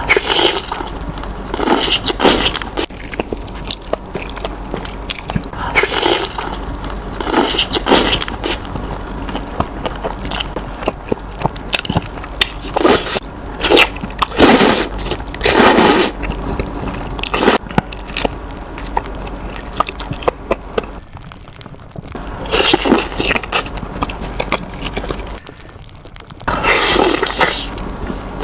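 Close-miked eating of Samyang spicy instant noodles and cheese sausages: bites, chewing and slurps, with utensils scraping. The sounds come in loud bursts every few seconds.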